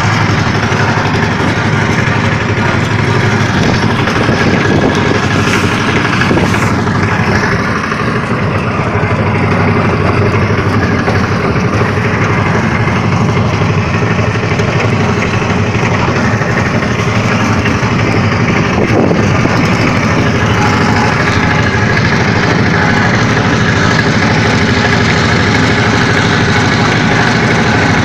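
A vehicle engine running steadily at an even speed, with a dense, unchanging hum.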